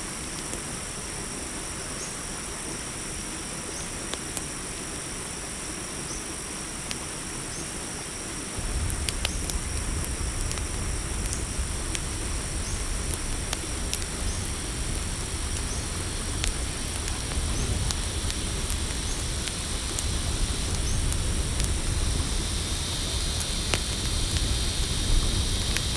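Crickets chirring steadily, with a campfire crackling in scattered sharp pops. About nine seconds in, a low rumble sets in and slowly grows louder.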